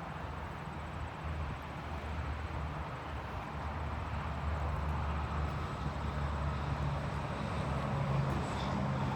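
Low, steady engine rumble of a vehicle, growing a little louder after about four seconds and again near the end.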